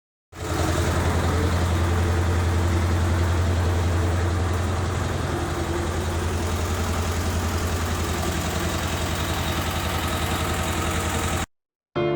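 T-25 tractor's two-cylinder air-cooled diesel engine running steadily with a fast, even low pulsing; the sound cuts off suddenly near the end.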